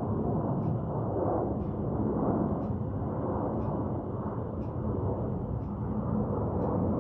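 Steady low rumble of a jet airliner's engines as it comes in to land.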